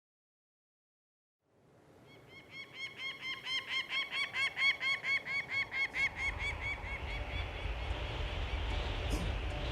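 A bird giving a fast series of harsh, repeated calls, about four a second, swelling and then fading. From about six seconds in, a low, steady rumble like wind rises beneath them.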